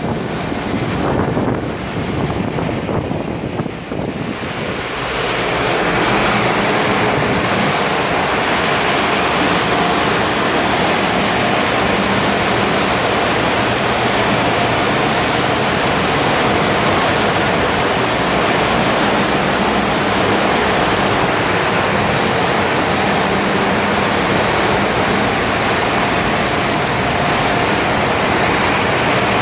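Loud, steady machinery noise in a cargo ship's engine room: engines and ventilation running together in a dense hiss, with a faint steady hum underneath. It grows louder and fuller about five seconds in, then holds steady.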